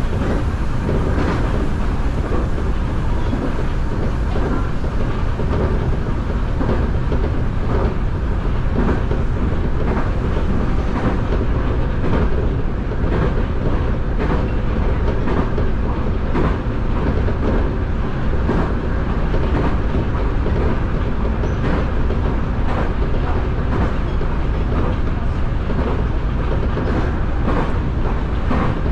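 Nankai electric commuter train running at speed, heard from inside the front car behind the driver's cab: a steady rumble with wheels clicking irregularly over rail joints and points.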